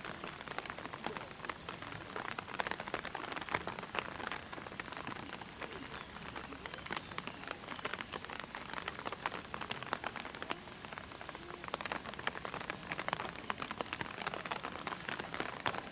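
Steady rain pattering: a dense, even crackle of many small drops.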